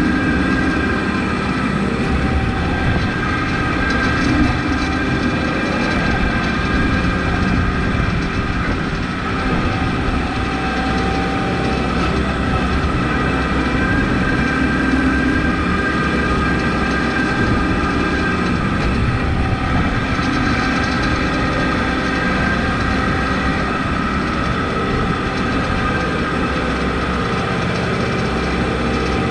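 Kubota MX5200 tractor's diesel engine running steadily while plowing snow with a straight blade, with steady whining tones over the engine note.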